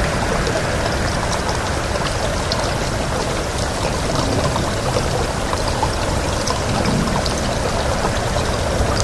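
Steady rain, with scattered individual drops ticking over a dense hiss and a low, shifting rumble of wind.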